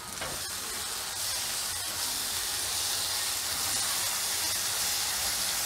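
Onion and spice masala paste sizzling in hot oil in a nonstick wok as red chilli powder is fried into it, a steady sizzling hiss that grows a little louder about a second in.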